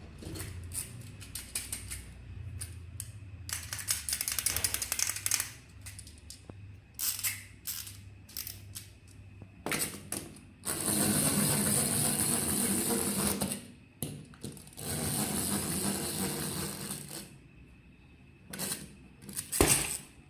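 Plastic toy handling: scattered clicks and a rapid ratcheting rattle, then two steady stretches of noise of about three seconds each, and a few sharp clicks near the end.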